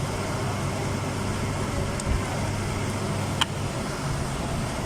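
Steady low mechanical hum over background noise, with a single sharp click about three and a half seconds in.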